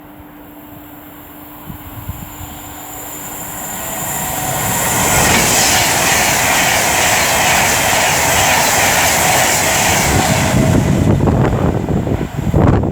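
Class 390 Pendolino electric train passing through the station: a rushing noise builds over a few seconds and holds loud and steady, then gives way near the end to a run of low thuds from the wheels.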